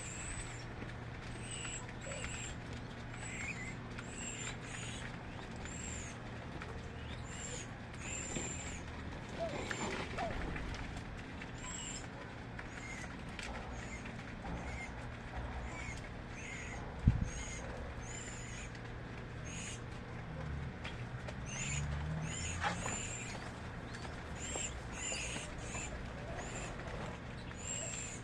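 Small birds chirping: many short, high-pitched chirps repeating irregularly, one or two a second, over a steady low hum. A single sharp knock comes about two-thirds of the way through.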